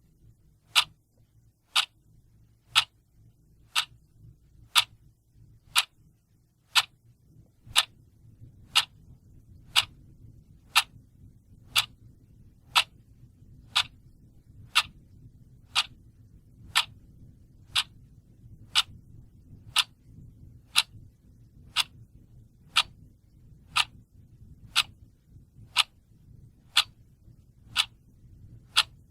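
Clock ticking steadily, one sharp tick about every second, over a faint low background hum.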